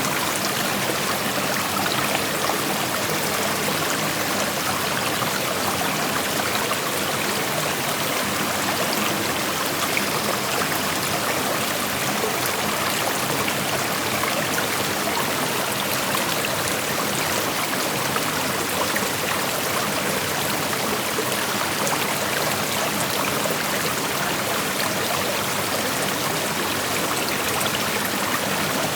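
Creek water flowing over rocks: a steady rushing and trickling hiss, even throughout.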